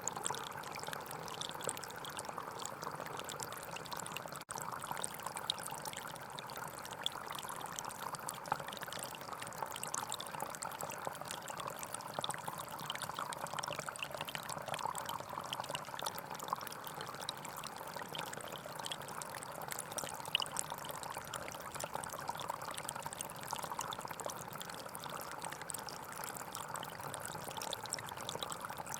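A gentle forest stream flowing and splashing over stones in a steady, even babble. It drops out for an instant about four and a half seconds in.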